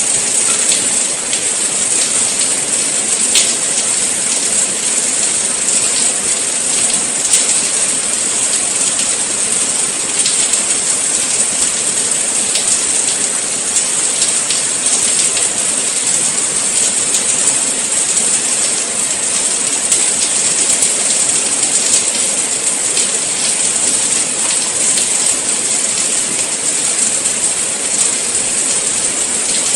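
Steady rain falling: an even hiss sprinkled with many small drop ticks.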